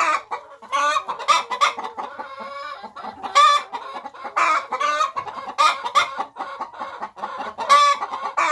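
Domestic hens clucking, a fast run of short calls one after another. It is the loud clucking that hens make around laying.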